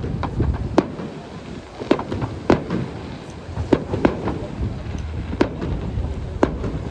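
Fireworks display: about eight sharp bangs of bursting shells at uneven intervals over a low, steady rumble.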